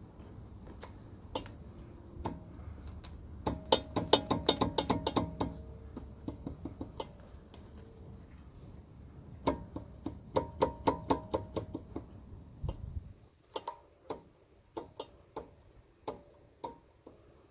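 Brake caliper on a SsangYong Actyon New knocking in its bracket as it is rocked by hand: quick runs of clacks, about six a second, then sparser single knocks. The knock is the sign of worn caliper guide pins.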